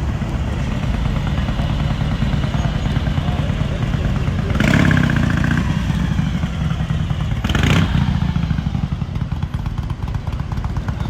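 A vehicle engine running close by, low and steady, with two short louder surges about five and eight seconds in.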